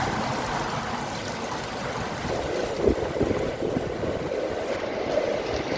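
Strong wind blowing in gusts, with a low, uneven rumble and a louder gust about three seconds in.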